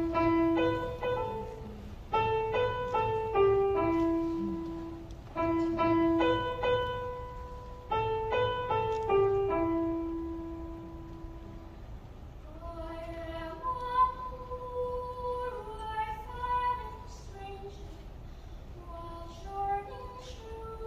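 Piano playing a slow phrase of ringing notes, then children's choir voices come in quietly over it a little past the middle.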